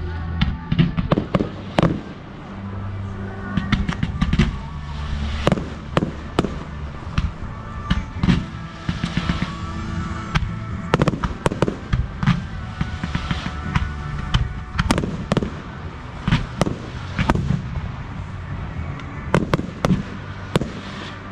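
Fireworks display: aerial shells bursting in quick succession, dozens of sharp bangs and cracks, with music playing underneath.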